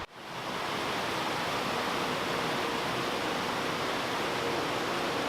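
Steady rushing of the Bride's Veil Waterfall's falling water, fading in over the first half second.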